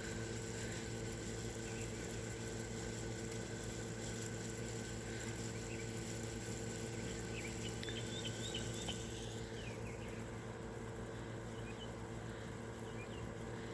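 Steady hum of an outdoor air-conditioning unit, with a few faint bird chirps about seven to nine seconds in.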